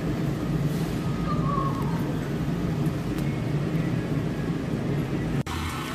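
Steady low hum of a large warehouse-style store's background noise. It breaks off abruptly shortly before the end, giving way to a different background.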